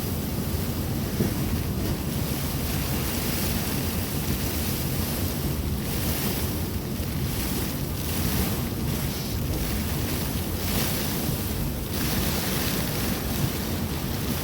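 Heavy downpour with strong wind gusts, the wind buffeting the microphone in a steady low rumble while the hiss of the rain swells and eases every few seconds.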